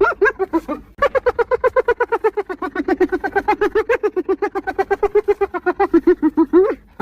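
Spotted hyena giggling: a rapid string of high, pitched hee-hee notes, about nine a second. A short run is broken by a brief pause about a second in, then one long run follows and ends with a slight upward swoop.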